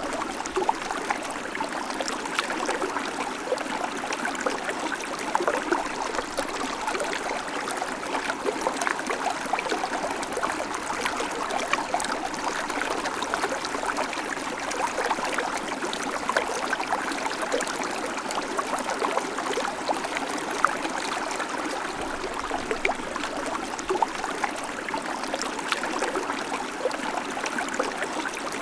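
Babbling creek: water running and splashing over stones in a steady, unbroken burble full of small bright splashes.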